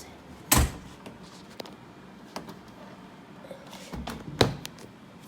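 Refrigerator door being handled: a sharp thump about half a second in, then a couple of knocks around four seconds in.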